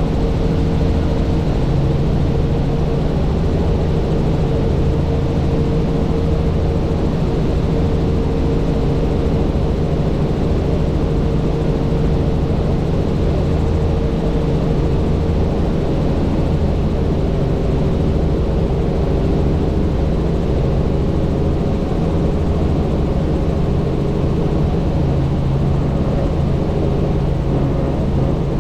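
Helicopter in steady flight: constant engine and rotor noise with a steady hum, loud and unchanging.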